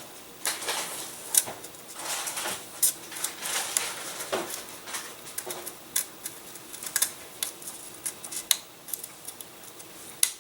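A small hand tool scraping and clicking irregularly in a slot in a balsa wood wing, widening it to 1/16 inch.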